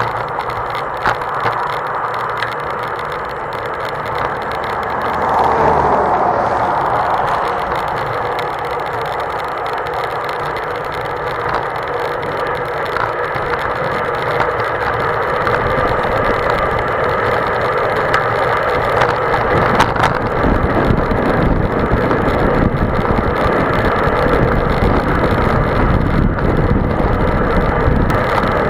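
Wind rushing over the microphone of a mountain biker riding into a strong headwind. A heavier low buffeting sets in about two-thirds of the way through.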